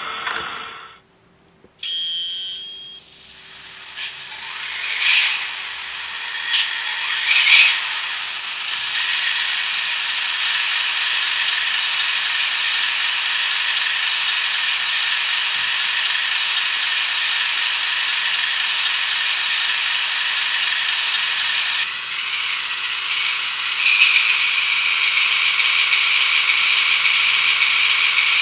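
HO-scale EF210 electric locomotive model with an ESU LokSound decoder: a steady whirring, mechanical sound from the model's small speaker and drive, with a few clicks in the first seconds and a step up in level about 24 seconds in.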